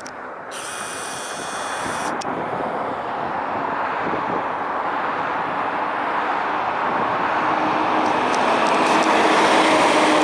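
A fire engine approaching: its engine and road noise build steadily louder. A short high-pitched electronic tone sounds early on.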